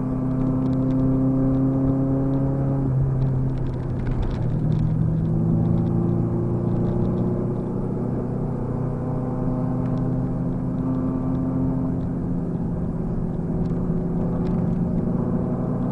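Car engine heard from inside the cabin under steady throttle. Its note climbs slowly, drops about three seconds in as with a gear change, then climbs again.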